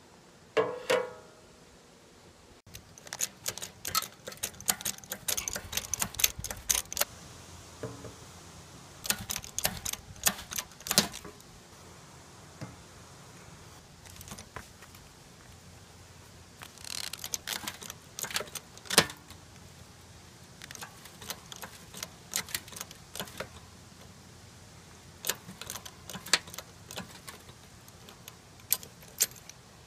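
Sharp metallic clicks and clinks in irregular clusters, from a bottle jack being set and worked under a steel campfire stove.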